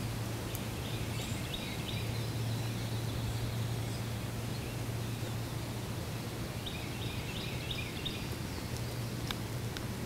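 Outdoor field ambience: a small bird sings a quick run of high notes twice, about a second in and again around seven seconds in, over a steady low hum. A couple of faint sharp clicks come near the end.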